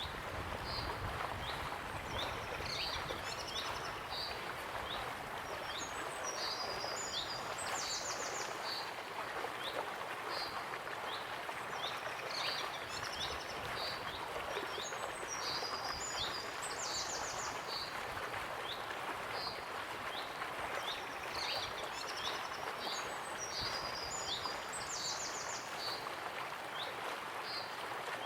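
Waterfall rushing steadily, with songbirds calling over it: short high chirps and quick trills that come back in clusters every few seconds.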